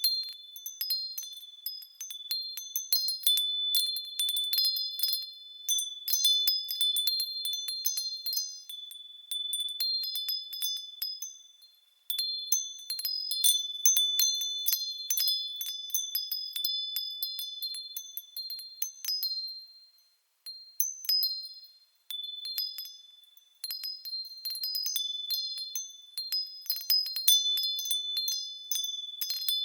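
Japanese fūrin wind chimes tinkling irregularly in the breeze: clusters of clear, high ringing tones that die away almost completely twice, about twelve seconds in and again around twenty seconds, before the wind sets them ringing again.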